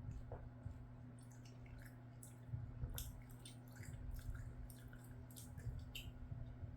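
Close-miked wet chewing of a mouthful of rice and scrambled egg: a run of small sticky clicks and smacks, over a steady low hum.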